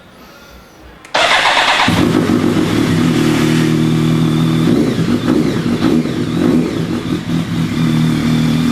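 BMW K1200S inline-four motorcycle engine started through an unbaffled Remus PowerCone exhaust: about a second in, the starter cranks briefly, then the engine catches and settles into a loud idle with a little twang to it.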